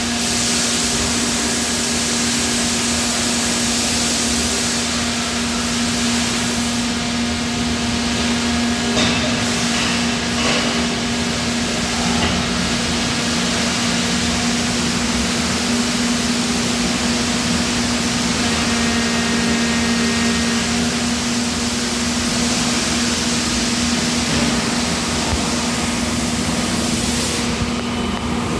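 Steady running noise of an 850-ton UBE die casting machine: a constant hum with a hiss over it, and a few short knocks about nine and ten seconds in.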